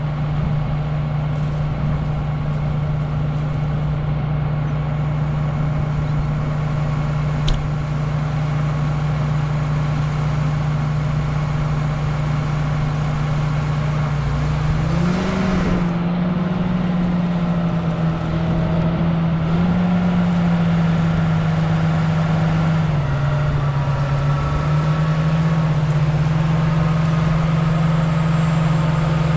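Farm tractor's diesel engine running steadily, its pitch rising about halfway through as it picks up revs, then stepping up and down a few times. A single sharp click sounds about a quarter of the way in.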